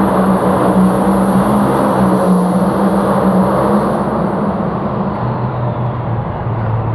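A pulling vehicle's engine running loud under load with a steady note, then dropping in pitch about four seconds in as it comes off the throttle.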